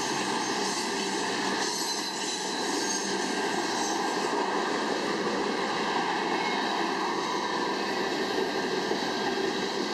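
Union Pacific freight train's hopper cars and boxcars rolling past close by: a steady noise of steel wheels on the rails.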